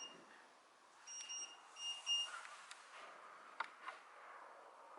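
Faint, high-pitched electronic beeps: a short one at the start, then two longer ones about a second and two seconds in. A few light clicks follow.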